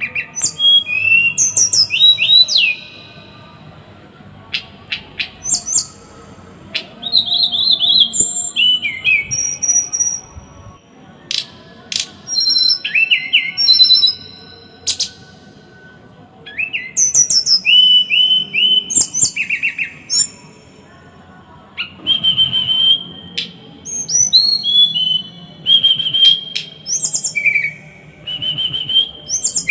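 Small songbird singing a masteran of dense, harsh 'tembakan' phrases: bursts of rapid, sharp notes sliding in pitch, one to three seconds each, with short pauses between them.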